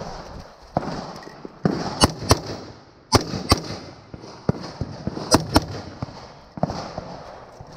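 Gunshots from a competitor shooting a multigun stage, fired mostly in quick pairs with short pauses between the pairs.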